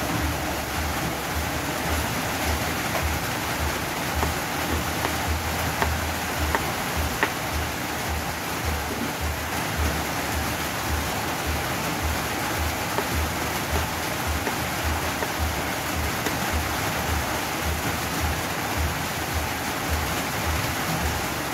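Steady rain, an even hiss, with a few faint taps of a cleaver on a plastic cutting board.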